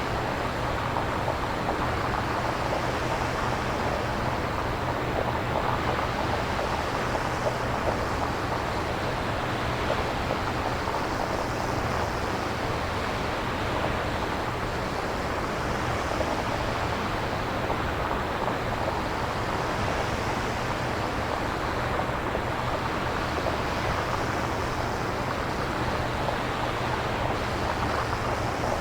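Synthesized nature ambience made from shaped noise: a steady hiss with a deep rumble beneath, its upper part swelling and ebbing every four seconds or so.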